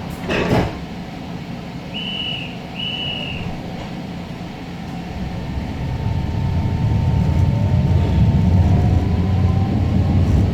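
Interior of an Alstom Citadis Spirit light rail train setting off: a brief thump at the start, two short high beeps about two seconds in, then a low rumble building from about six seconds in with a faint rising motor whine as the train gathers speed.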